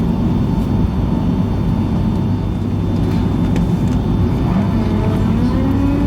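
Boeing 757-200 cabin noise: a steady low engine rumble heard from inside the cabin, with a rising whine beginning about four and a half seconds in.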